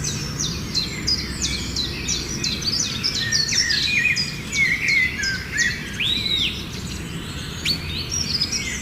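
Several small songbirds chirping and twittering in a dense, overlapping chorus of quick high notes, with one longer arching whistle about six seconds in, over a steady low background rumble.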